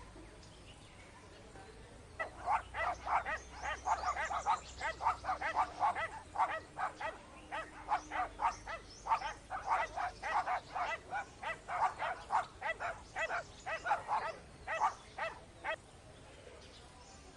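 A dog making short, rapid sounds, about four a second. They start about two seconds in and stop near the end.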